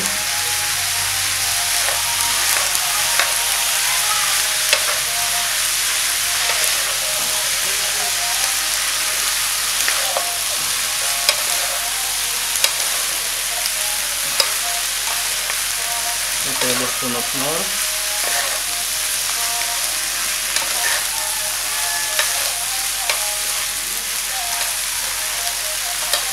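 Chopped pork face and liver frying in a pan, a steady sizzle, while being stirred and turned with a metal spoon and a spatula, with frequent small clicks and scrapes of the utensils against the pan.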